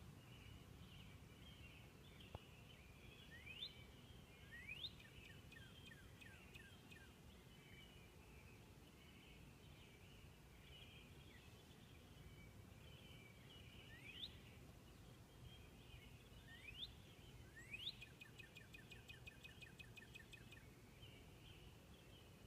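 Northern cardinal singing faintly: several sharp rising whistled notes, twice running on into a rapid series of short repeated notes, over a steady faint high-pitched chorus in the background.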